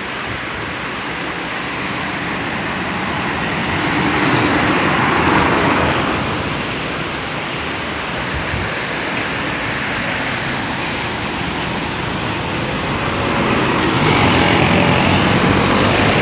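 Steady road and wind rush from riding a scooter along a highway. It swells louder twice, about four seconds in and near the end, as traffic goes by.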